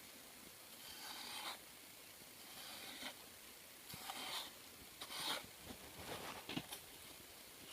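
Faint, intermittent scraping and rubbing, as of hands working material, in short strokes about a second apart.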